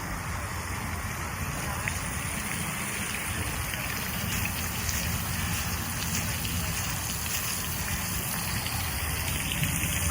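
Steady rush of falling, splashing water, slightly louder from about four seconds in.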